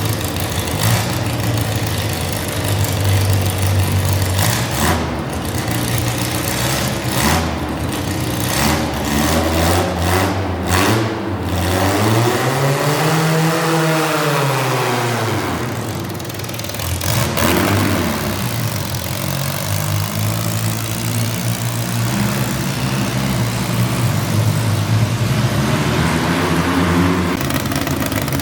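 Garden tractor engine running steadily, revving up and dropping back down once about halfway through.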